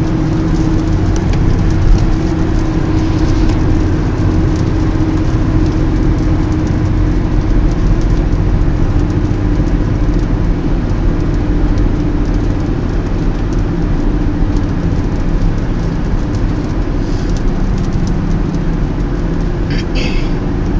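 Steady driving noise inside a moving car: the engine's low, even drone under a constant rush of tyre and road noise.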